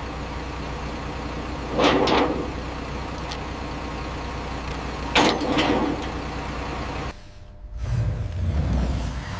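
A machine running with a steady low drone, broken by two short, louder noisy bursts about three seconds apart. The drone cuts off suddenly about seven seconds in, and a lower rumbling sound follows.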